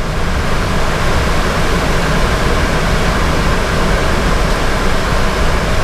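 Steady, even rushing noise with a low rumble beneath it inside a fire engine's cab, with no distinct tones or events.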